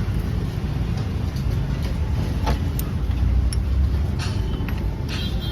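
Steady low rumble of motor-vehicle engine noise, with a few short light clicks.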